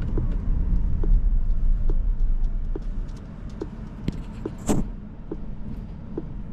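Low road and tyre rumble inside the cabin of a moving electric SUV, easing off about three seconds in, with a regular light ticking a little faster than once a second and one sharper click near the end.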